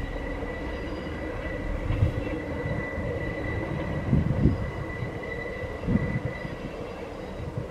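Distant diesel multiple-unit passenger train running steadily along the line, a continuous rumble with a thin high note that fades out near the end. A few low thumps from wind buffeting the microphone.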